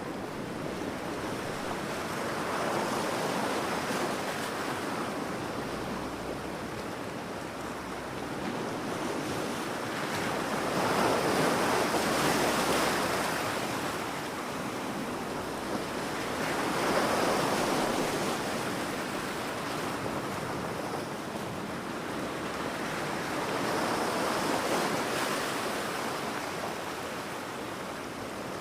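Ocean waves breaking on a beach, the surf swelling and receding in slow surges about every six seconds, with a steady wash between breakers.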